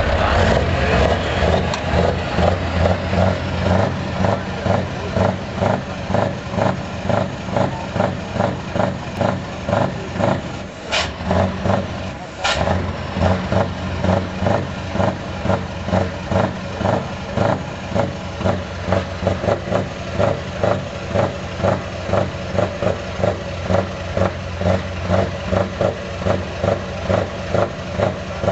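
V8 engine idling, its loudness rising and falling in an even rhythm about twice a second.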